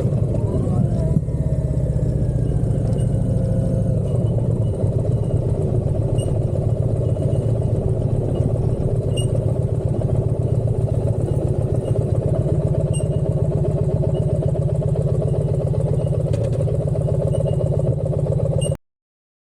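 Motorcycle engine running steadily, cutting off abruptly near the end.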